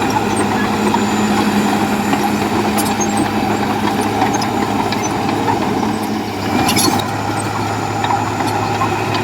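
Heavy diesel bulldozer engine running steadily under work, with a higher engine tone that drops away about six seconds in and a few short metallic clanks, the loudest just before seven seconds.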